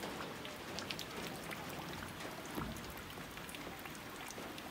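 Steady rain falling, an even hiss with many individual raindrops ticking close by.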